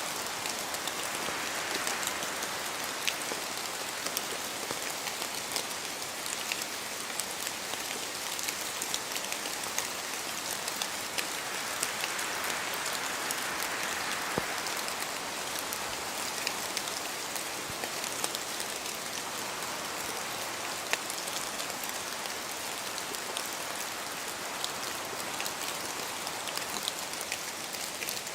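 Steady rain falling through forest trees, with many sharp individual drops spattering throughout. The hiss swells softly a couple of times, as gusts of wind pass through the trees.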